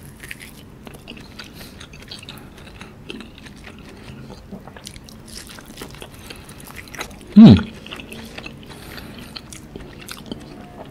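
Close-miked chewing of tender grilled wagyu beef: soft, wet mouth clicks and smacks. About seven seconds in, one short, loud hum from the eater's voice that falls in pitch.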